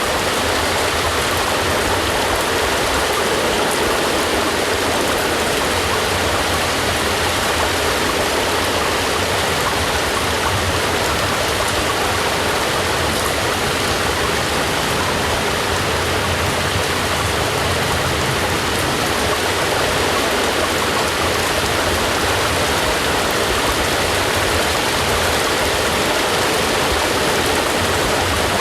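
Steady heavy rain, a dense, unbroken hiss of falling water with no change in level.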